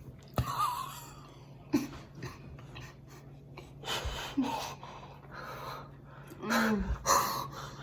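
People eating extremely hot chicken wings: sharp breaths, gasps and short 'mm' noises between bites as the spicy heat sets in, over a steady low hum.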